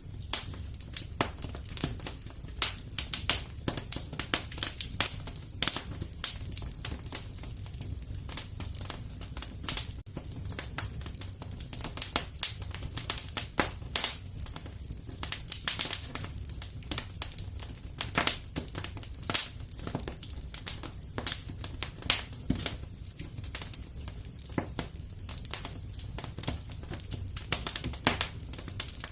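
Wood fire crackling: dense, irregular sharp pops and snaps over a steady low rumble.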